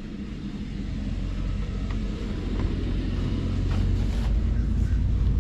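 Boat engine rumbling low, growing steadily louder.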